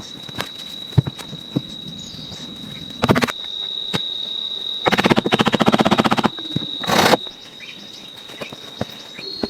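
A steady, high, continuous insect trill, like a cricket's, with a few sharp knocks and a rapid rattling burst of about a second just past the middle.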